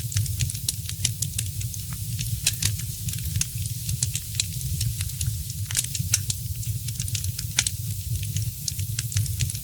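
Wood fire crackling in a fireplace: many small irregular pops and snaps over a steady low rumble of the burning fire.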